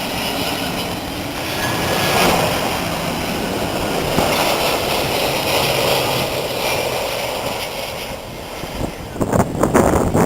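Boeing 767-300 freighter's twin jet engines running with a steady roar as the aircraft comes in to land. From about nine seconds in, uneven gusts of wind buffet the microphone.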